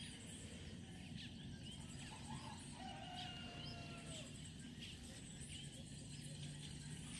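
Faint bird calls: scattered short chirps and one longer held call a few seconds in, over a low steady outdoor background hum.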